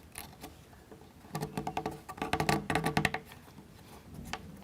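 A thin plywood part being pressed out of its precut wooden sheet: a quick run of small cracks and creaks lasting about two seconds, starting just over a second in.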